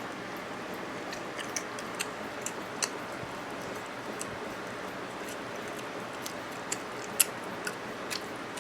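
A person eating: irregular small clicks and mouth smacks of chewing over a steady hiss, the sharpest click about seven seconds in.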